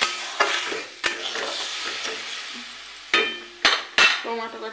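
Oil and masala sizzling in a metal kadai on a gas burner, with a steady hiss and several sharp knocks against the pan, most of them in the last second and a half.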